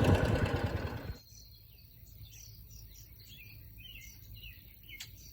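A small motorbike engine running, which stops abruptly about a second in. After that, birds chirp over quiet outdoor background, with one sharp click near the end.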